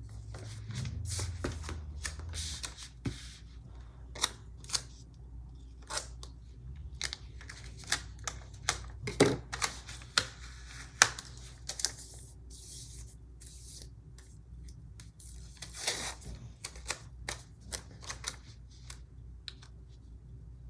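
Irregular small clicks, taps and short paper rustles from sticker sheets and cut paper pieces being handled and pressed onto a planner page.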